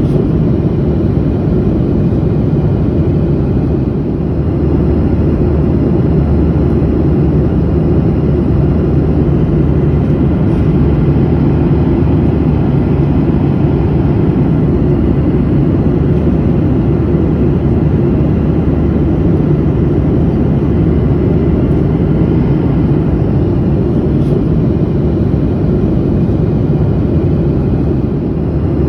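Steady in-flight noise of a jet airliner: a loud, deep, unbroken rush of engines and airflow with a faint low hum, as heard from the passenger cabin.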